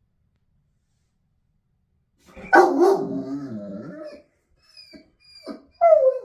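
Kangal shepherd dog vocalising: a loud, drawn-out bark about two and a half seconds in, wavering and falling in pitch, then several shorter calls that drop in pitch, the last one loud.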